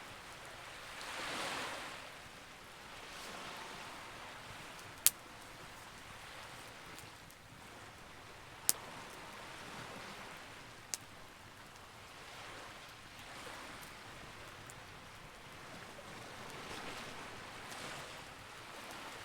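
Campfire crackling, with three sharp pops, over waves washing in and out in swells every few seconds.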